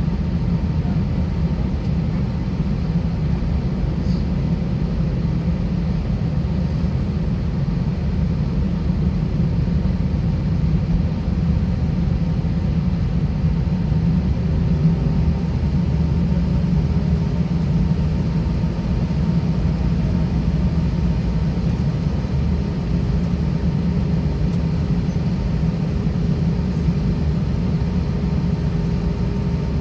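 Steady low rumble of an Airbus A320's IAE V2500 engines at low ground power, heard inside the passenger cabin during taxi, with a faint steady whine above the rumble.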